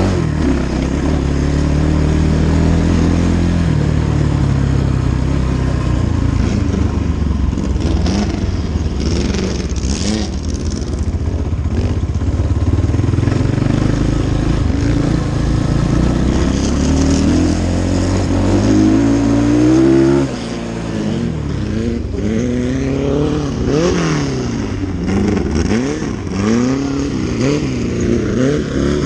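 Dirt bike engine running hard, its pitch rising and falling with the throttle and gear changes. About twenty seconds in it drops off briefly, then revs up and down again and again.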